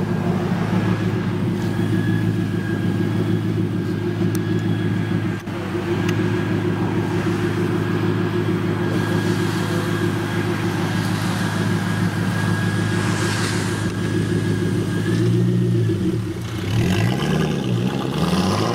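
Ford GT's supercharged 5.4-litre V8, tuned to a claimed 700 hp, running at low revs with a steady deep rumble as the car pulls slowly away. Near the end the revs swing up and down in a few throttle blips.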